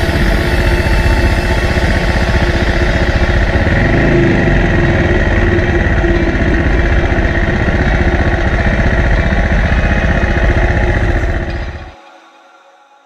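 SWM Superdual X's single-cylinder engine running steadily, with a slight change in pitch about four seconds in. The sound cuts off abruptly about twelve seconds in.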